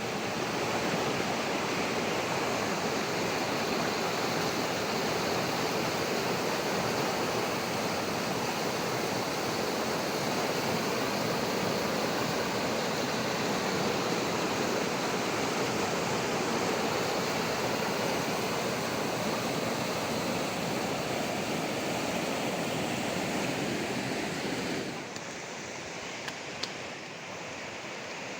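Steady rushing of a fast-flowing river over stones. It drops to a lower level about three seconds before the end, where a brief faint click is also heard.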